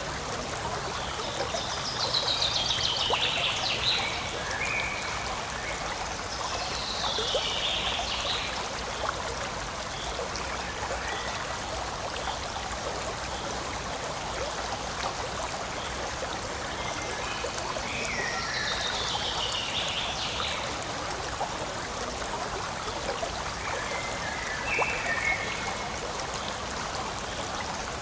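Forest stream running steadily over rocks, a constant rush and trickle of water. A few high, falling trills sound over it four times.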